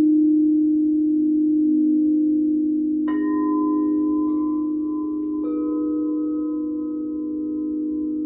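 Singing bowls ringing: a deep bowl hums on with a loud steady low tone while three lighter strikes, a little over a second apart, add higher ringing tones that slowly fade.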